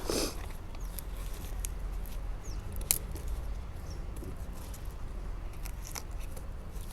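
Scattered light clicks and rustles of hands handling things, over a steady low hum, with one sharper click about three seconds in.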